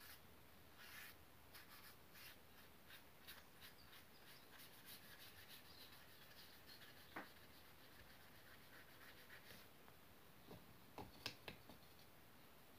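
Pen strokes scratching lightly on paper, short quick strokes two or three a second, then a few sharper taps near the end.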